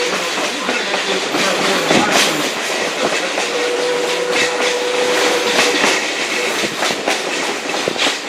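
Passenger railroad coach rolling along the track: a steady running rumble with wheels clicking irregularly over rail joints. A faint steady whine joins in for a couple of seconds midway.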